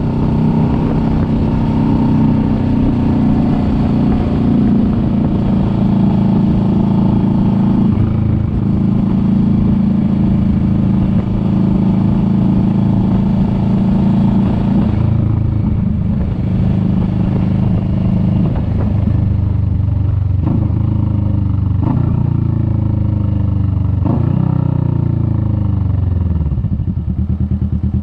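Kawasaki Vulcan S 650's parallel-twin engine pulling steadily under way. Over the last third the pitch falls in several steps with brief clicks between them as the bike slows. About a second before the end it settles into an even, low idle.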